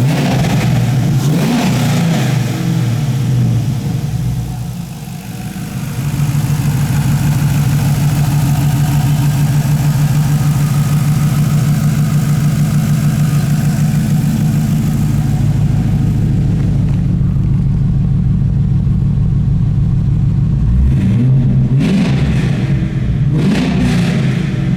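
2004 Pontiac GTO's 5.7L LS1 V8 running: revved briefly at the start, settling to a steady idle, then blipped twice more near the end.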